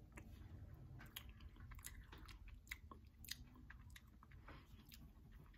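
Faint chewing of a sugar-coated sour pickle ball gummy candy, with small wet mouth clicks scattered throughout.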